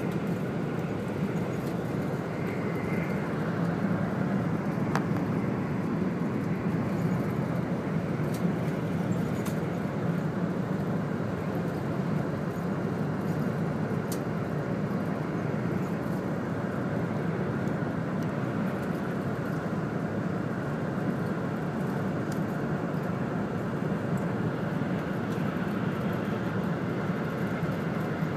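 100 series Shinkansen running at speed, heard from inside the passenger car: a steady low drone with a few faint clicks.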